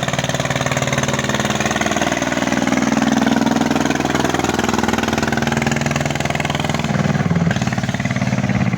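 Kubota tractor's diesel engine running steadily, its pitch rising a little about two to three seconds in and then easing back.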